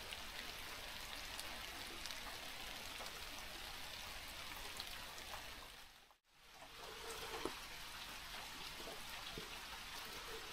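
Steady rain falling, with scattered small drop ticks. It fades out completely about six seconds in, then returns.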